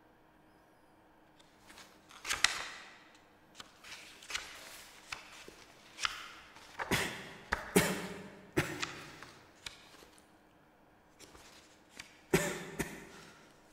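A book being handled and its pages leafed through: a series of sharp papery rustles and soft knocks, sparse at first, thickest from about six to nine seconds in, with a last loud burst near the end.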